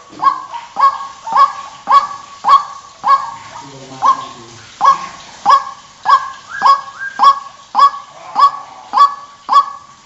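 White-breasted waterhen (ruak-ruak) calling: a loud, harsh call note repeated about twice a second, the kind of recording played as a trapping lure.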